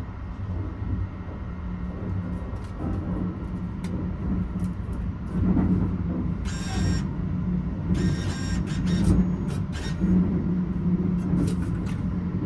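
Steady low rumble and hum of the Sunrise Express (285 series electric sleeper train) running, heard from inside the carriage. A few sharp clicks and two short electronic-sounding bursts, about six and eight seconds in, come as a shower card goes into the card slot.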